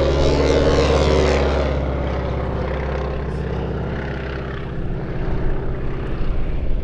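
A Boeing Super Stearman biplane's 450-horsepower radial engine and propeller flying past at slow speed, loudest about a second in and then fading as it moves away.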